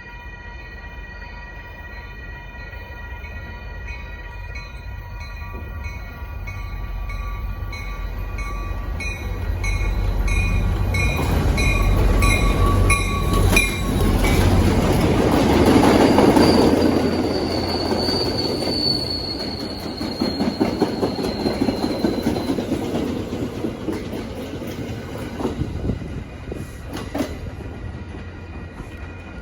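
A train passing over a grade crossing. Its deep rumble builds to a peak about halfway through, and the wheels give a high squeal that slowly falls in pitch. Clicking wheel clatter follows as the cars roll by. In the first half, steady ringing tones with a repeating beat sound alongside, typical of crossing warning bells.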